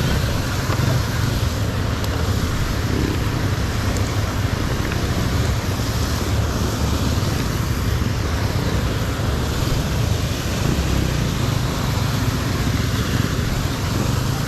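Motorcycle running steadily on the move, engine rumble mixed with a continuous rush of wind on the microphone.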